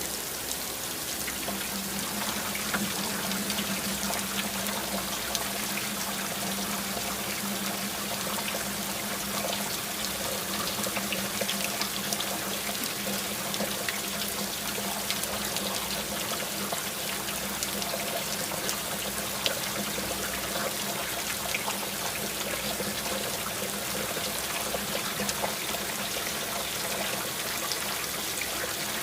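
Steady rain with many individual drops pattering, running on without a break. A low steady hum comes in about a second and a half in and continues under it.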